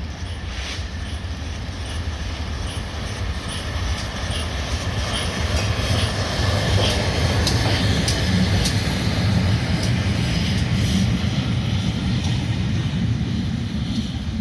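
Train passing on the line: a low rumble that builds over the first several seconds and then holds, with the regular clicking of wheels over rail joints.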